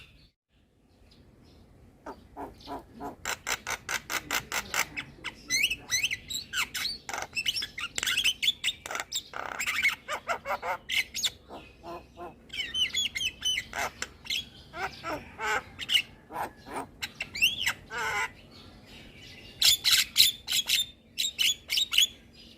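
Javan myna (jalak kebo) singing: a fast, rattling chatter of clicks mixed with squawks and short whistled notes that slide up and down. It starts after a brief quiet moment at the beginning.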